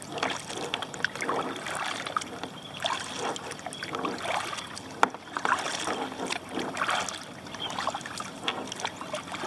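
Kayak paddle strokes dipping and pulling through the water, splashing and dripping in repeated swells, with a sharp click about five seconds in.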